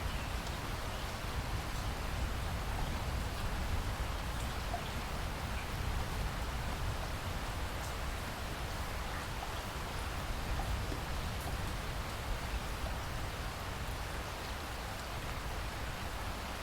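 Steady rainfall: an even hiss of rain with a low rumble underneath and a few faint drop ticks.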